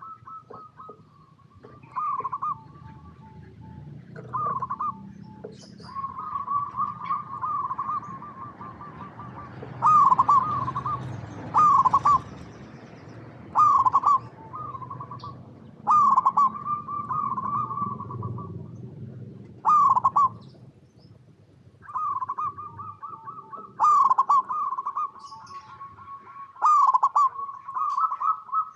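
Zebra doves (perkutut) cooing. Short phrases of quick, rippling coo notes repeat every couple of seconds, some running on as longer trills.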